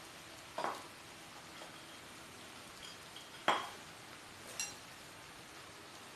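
Eating utensils tapping and clinking against a dish, three short sharp sounds, the loudest about three and a half seconds in and the last one ringing briefly, over a faint steady hiss.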